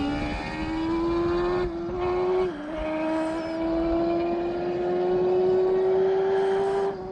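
Land-speed racing motorcycle accelerating hard down the course at full throttle, its engine note climbing steadily. There are brief breaks for upshifts about two and a half seconds in and again near the end.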